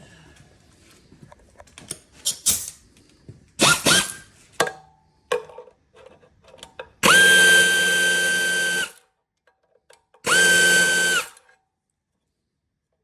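A handheld power driver spinning a socket on a bolt of a Kohler CV725 engine, run in two bursts, a longer one and then a shorter one, each winding up quickly to a steady whine. Before them come light clicks and knocks of the socket and tool being fitted.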